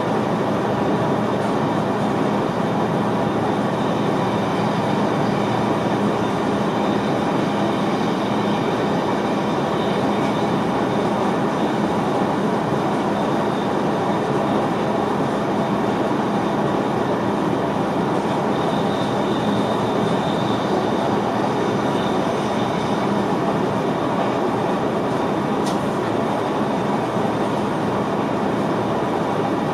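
Steady running noise inside the driver's cab of an NS VIRM double-deck electric train at speed, wheels rolling on the rails. A faint high squeal comes in around the middle, and a single click is heard near the end.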